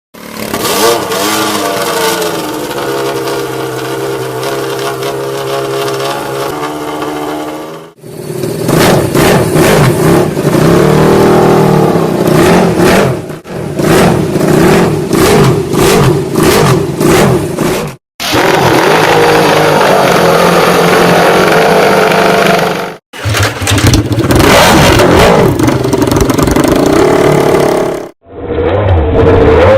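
Ducati Desmosedici MotoGP V4 racing engines revving hard through their exhausts, in a series of separate clips that cut abruptly about every five seconds. In the first clip the engine climbs in revs and then holds a steady high pitch; the later clips rise and fall with the throttle.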